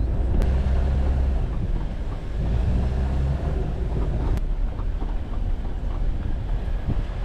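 Jeep Wrangler driving on a forest road: a steady low engine and road rumble, with two brief clicks, one about half a second in and one around four and a half seconds.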